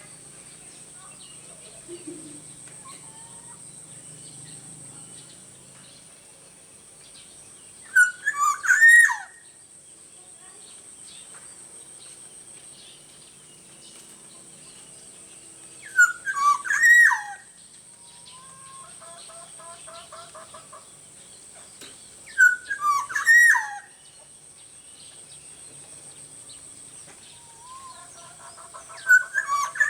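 Black-naped oriole (kepodang) giving four short, loud, fluty whistled phrases about seven seconds apart, each lasting about a second. A steady high-pitched whine and faint chirps run underneath.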